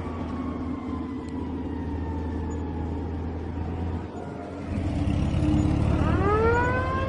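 Toy car's small motor running with a steady low hum. About six seconds in, a whine rises quickly and levels off into a steady high tone.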